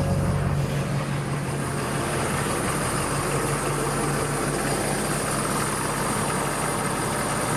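Ford F250's 6.7 L Power Stroke turbo-diesel V8 idling steadily just after starting, running on a freshly replaced fuel filter and no longer spraying fuel.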